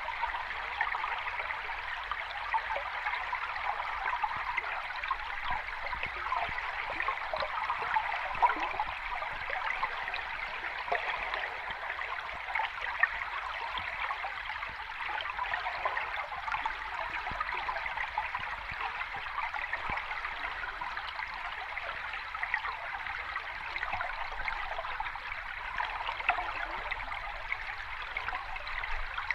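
Sea water washing over the shore, a steady fizzing, trickling hiss with no distinct wave surges.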